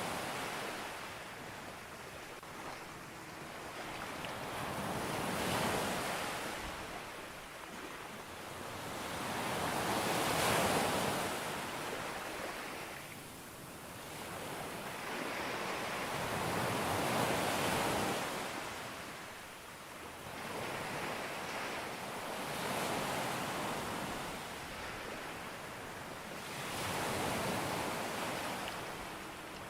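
Ocean waves breaking on a beach and washing back, in slow surges that swell and fade about every five to seven seconds, with a steady hiss of surf between them.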